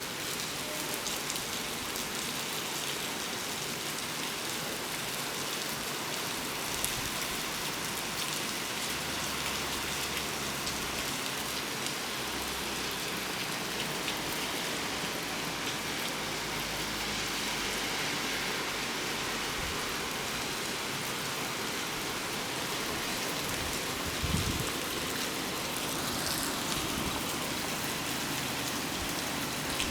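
Steady rain falling, pattering on surfaces, with scattered drops ticking; a brief low thump about 24 seconds in.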